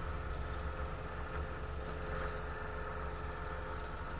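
A car engine running steadily, a low even rumble with a faint hum above it.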